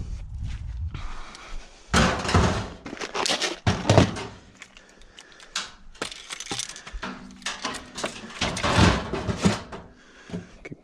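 Gear being packed into a tote box: an irregular run of clunks, knocks and scraping, with sharp hits about 2 and 4 seconds in and more clattering near the end.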